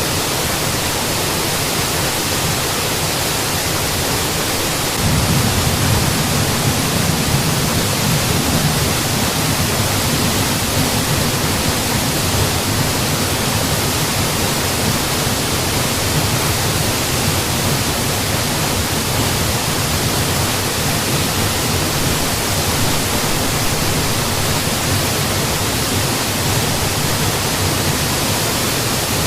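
Mountain waterfall pouring steadily, a constant full rush of falling water. Its low rumble swells a little about five seconds in and stays there.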